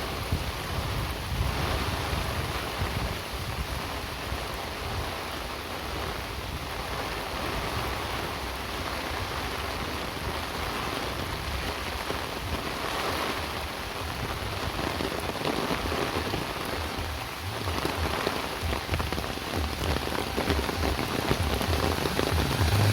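Steady rain falling, an even hiss of drops throughout.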